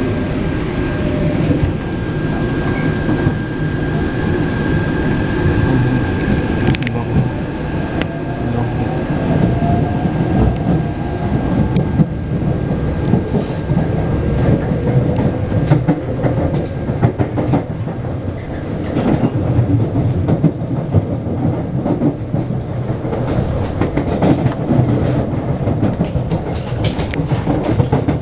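Taipei Metro C381 electric train running along the line, heard from inside the car: a steady rumble with wheels clacking over the rail joints. A motor whine rises in pitch partway through as the train picks up speed.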